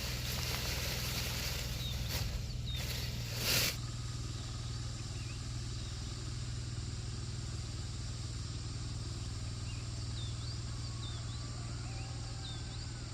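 A steady low hum under a noisy rustling haze, with a louder burst about three and a half seconds in; after that it is quieter, with faint short chirps.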